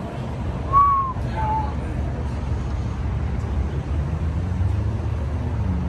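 Steady low rumble of vehicle engines, with two short high-pitched tones about a second in, the first the loudest sound.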